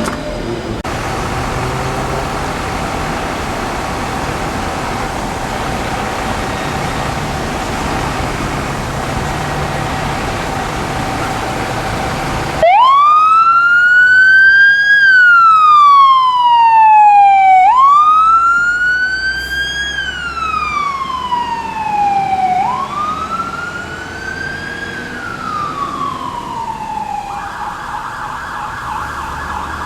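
Fire truck siren switching on about twelve seconds in, sounding a slow wail that rises and falls about every five seconds, loudest at first and then fading. Before it, only steady street noise.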